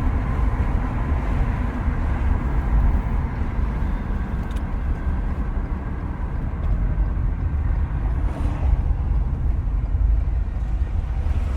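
Steady low rumble of a car in motion: engine and road noise heard from inside the cabin.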